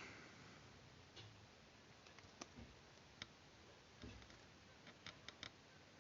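Faint, scattered small clicks and taps of paper and craft tools being handled during paper-model work: single clicks at intervals, then three in quick succession about five seconds in, over near-silent room tone.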